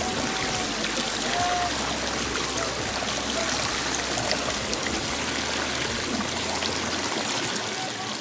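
Steady rush of water falling and splashing at a hill-stream waterfall, running low in the dry season.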